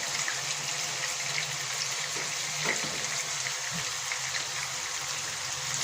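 Boneless chicken pieces sizzling in hot oil in a pan: a steady hiss with small scattered crackles, over a low hum, with one light tick about halfway through.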